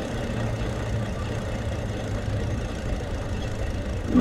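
Steady rumble of an e-bike ride, with a low, even hum underneath.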